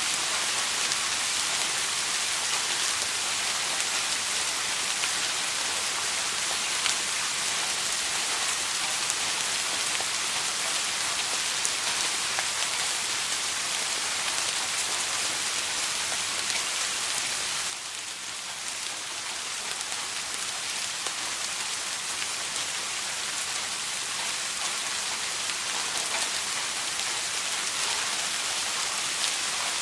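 Steady rain, a dense hiss of falling drops. About 18 seconds in it suddenly turns slightly quieter, then builds back.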